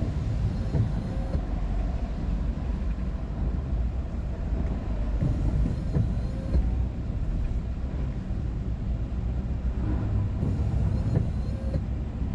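A moving vehicle heard from inside: a steady low rumble of engine and road noise.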